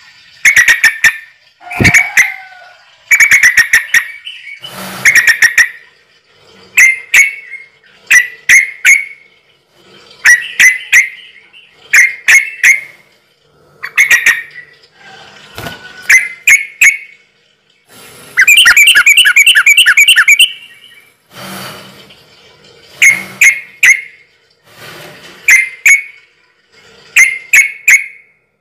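A bird calling over and over in short, loud calls that come in quick groups, with a fast rattling trill about two-thirds of the way through.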